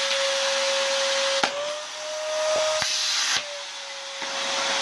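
Vacuum cleaner running, a steady whine over a rushing hiss. A few sharp clicks come about a second and a half in and again near the middle, and the whine rises slightly in pitch between them.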